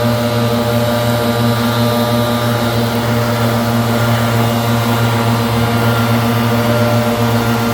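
Leaf blower running steadily at a constant high speed, blowing leaves off river rock.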